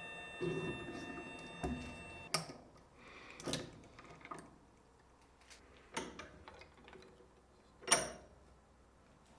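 A machine's steady, multi-tone whine, most likely the lathe's motor, cuts off suddenly about two seconds in. Then come scattered light clicks and knocks, the sharpest one near the end.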